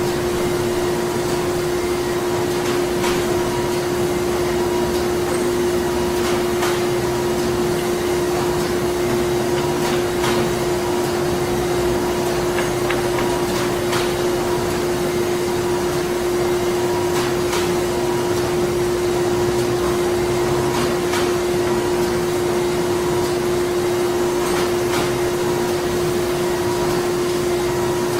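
Printing plant machinery running steadily: a constant mechanical hum with a strong single-pitch drone and a dense noise bed, with scattered sharp clicks every few seconds.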